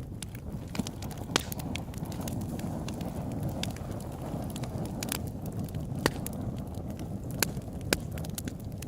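Open-air campfire burning: a steady low rush of flame with crackles and pops scattered irregularly through it, a few of them sharper snaps.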